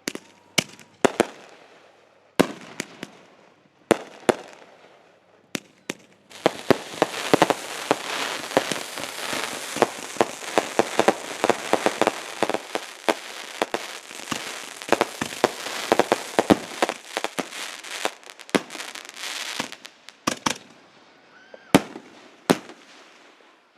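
Fireworks going off: a few separate sharp bangs, then about six seconds in a dense, rapid crackle of many pops that runs for about fourteen seconds before thinning to a few last bangs.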